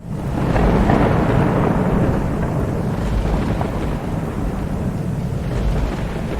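Steady heavy rain with a long roll of thunder that swells about a second in and slowly rumbles away.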